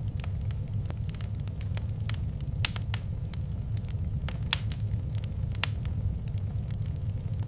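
Wood fire crackling in a fireplace: irregular sharp pops and snaps, the loudest about a third of the way in, halfway and three quarters through, over a steady low rumble.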